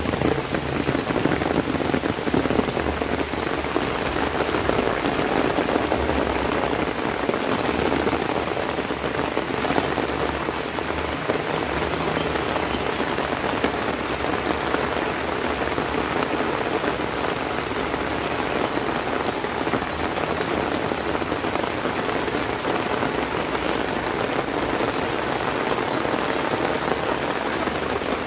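Heavy rain falling steadily, drumming on an umbrella overhead as an even, unbroken patter.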